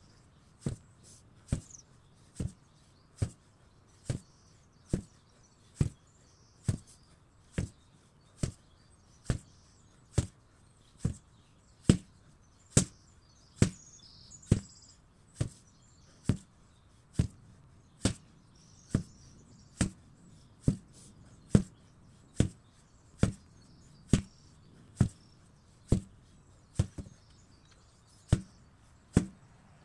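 8 kg sledgehammer striking repeatedly at an even pace, a sharp blow about every 0.8 seconds, with no let-up.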